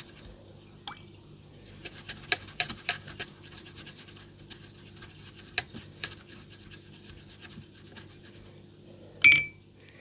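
Small brush and craft-table sounds while watercolour is applied: light scratching and scattered small taps and clicks over a faint steady hum, with one louder sharp knock that rings briefly near the end.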